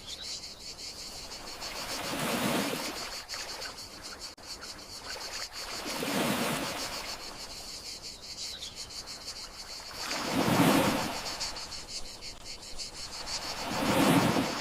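Gentle sea waves washing in slow swells about every four seconds, four in all, with a steady high chirring of crickets underneath.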